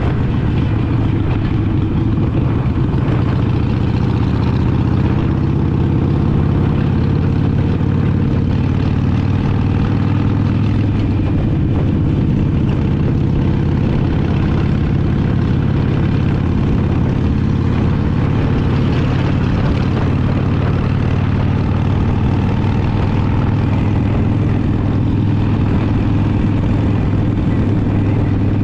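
Harley-Davidson Sportster Iron 883's air-cooled V-twin engine running at a steady cruise, heard from the rider's seat as an even, low drone.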